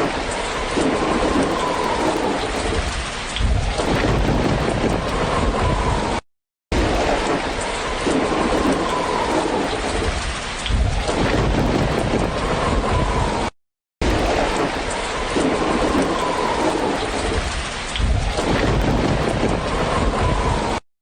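Steady rain with low rolling thunder. The same few seconds of recording loop three times, each repeat broken by a brief moment of silence.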